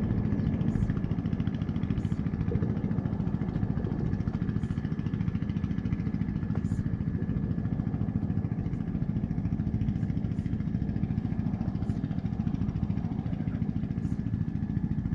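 BMW R1200GS boxer-twin motorcycle engine running steadily.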